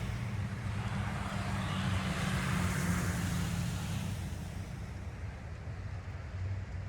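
Road traffic: a vehicle passing, its tyre and engine noise swelling to a peak about three seconds in and then fading, over a steady low hum.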